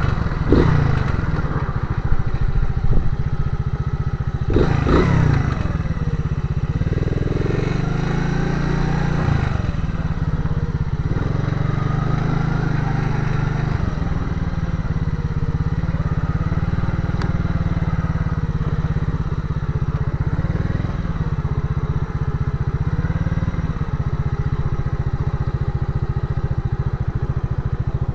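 Motorcycle engine running under way, its pitch rising and falling with the throttle, with quick sharp revs near the start and about five seconds in.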